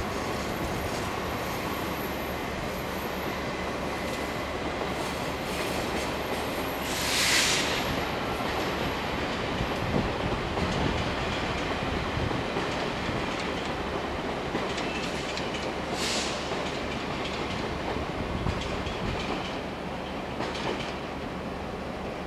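Train moving through a rail yard: steady rumble with wheels clicking over the rail joints. Two short hissing bursts come about 7 seconds in and again about 16 seconds in, with a few knocks in between.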